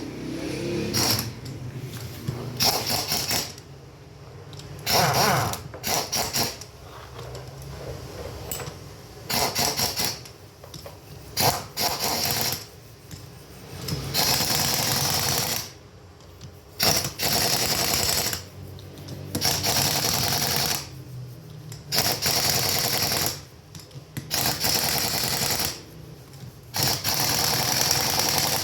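A power tool run in about a dozen short bursts of one to three seconds each, switched on and off with brief pauses between.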